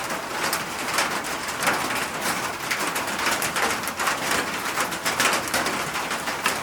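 Steady rain falling, with dense, irregular pattering of drops striking a surface.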